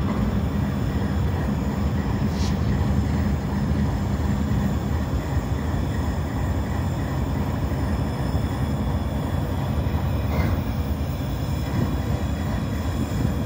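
Diesel freight locomotives running on the track, a steady low rumble with a hum in the first few seconds.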